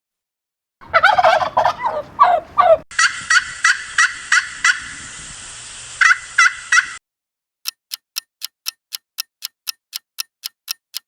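Turkey gobbling: rapid, rattling gobble calls for about six seconds. Then a countdown timer ticking, about four ticks a second, through the last few seconds.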